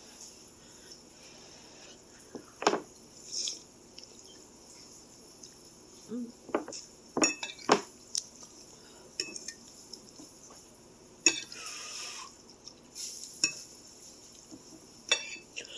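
A utensil clinking and tapping against a bowl in scattered, irregular strikes while noodles are mixed with sauce.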